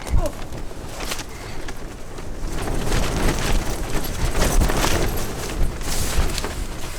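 Strong wind gusting against tent fabric and the microphone, with rough rumbling and rapid flapping knocks. It builds about two and a half seconds in and eases near the end.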